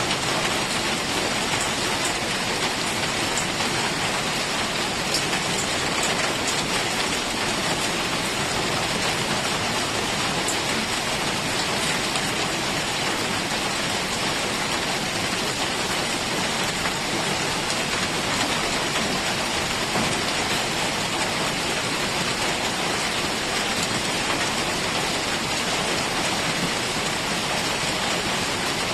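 Heavy rain falling steadily, a constant dense hiss with scattered small drop patters.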